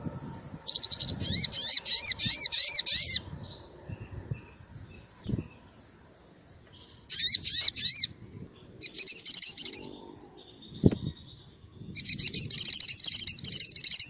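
Sunbird (sogon) song: bursts of fast, high-pitched trilled chirps, four in all, the longest about two and a half seconds, with short pauses between them.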